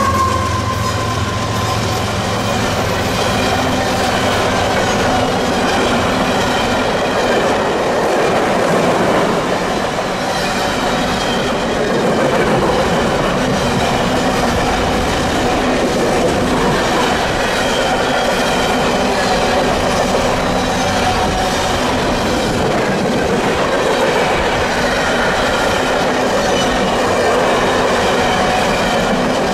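Canadian Pacific freight train passing close by. A mid-train GE AC4400CW diesel locomotive (distributed power unit) runs past first, its engine drone fading within about two seconds. Then coal hopper cars keep rolling past with a steady wheel rumble, clickety-clack over rail joints and wheel squeal rising and falling.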